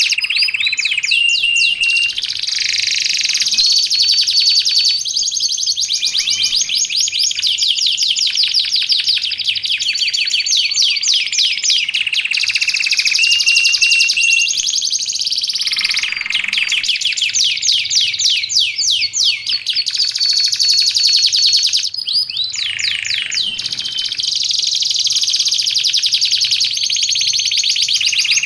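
Canary singing without pause: long, fast trills of rapidly repeated notes, broken every few seconds by short held whistled notes.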